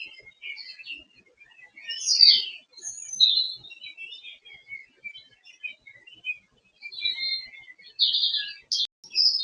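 Several songbirds singing and chirping in short, high phrases one after another, busiest about two seconds in and again near the end.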